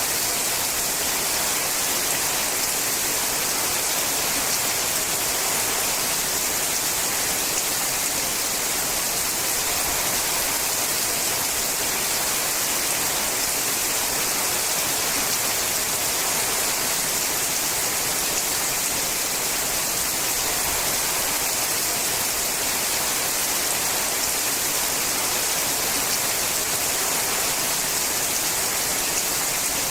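Rain falling steadily on a sheet-metal roof, a dense, even patter with no breaks.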